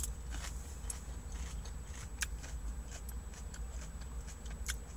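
A person chewing food with the mouth closed, with a few faint clicks of the mouth and lips, over a steady low hum.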